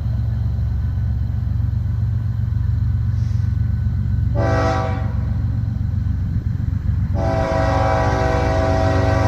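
Multi-chime air horn of a BNSF diesel freight locomotive: a short blast about four and a half seconds in, then a long blast beginning about two seconds later, over the steady low rumble of the locomotives' diesel engines. The short-then-long pattern fits the end of the standard grade-crossing horn signal.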